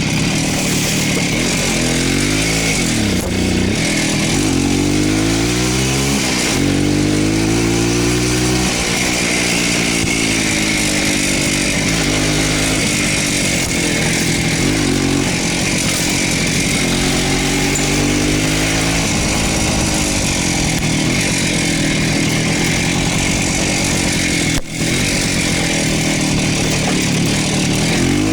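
Voskhod motorcycle's single-cylinder two-stroke engine running on the move, its pitch rising and falling several times as the rider works the throttle.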